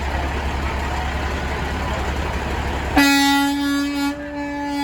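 Steady rumble of passing truck traffic. About three seconds in, a truck air horn sounds suddenly and holds one steady note, with a brief dip near the end.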